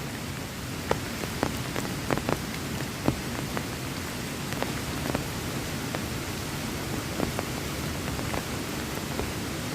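Steady heavy rain falling, with scattered louder drops ticking sharply on a nearby surface, more often in the first few seconds.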